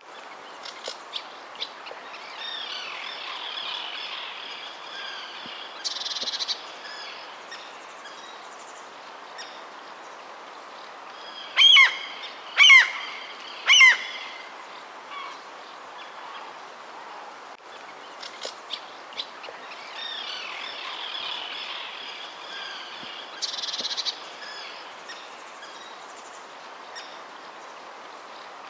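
Wild birds chirping and calling over a steady background hiss of outdoor ambience. Three loud calls come about a second apart near the middle, each sliding steeply down in pitch.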